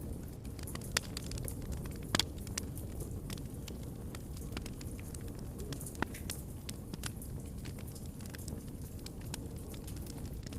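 Wood fire burning in a fireplace: a steady low rumble of flames with scattered crackles and pops, the sharpest a double snap about two seconds in and another about six seconds in.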